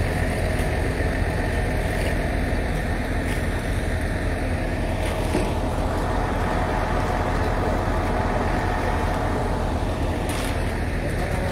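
Steady vehicle engine and traffic noise, an even rumble with no break or change.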